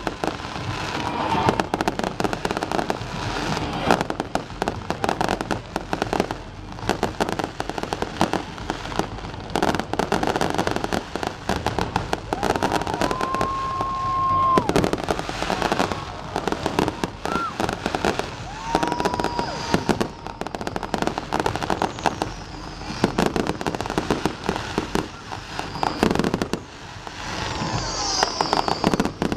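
A fireworks display going off: a dense, continuous run of bangs, pops and crackles, with two brief whistle-like tones near the middle.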